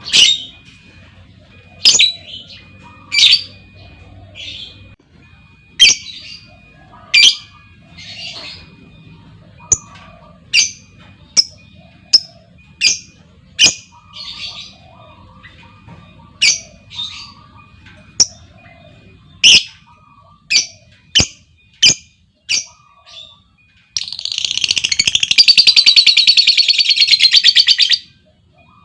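Lovebirds giving short, sharp, high-pitched chirping calls about once a second, then near the end about four seconds of loud, rapid, unbroken chattering trill: the long 'ngekek' song.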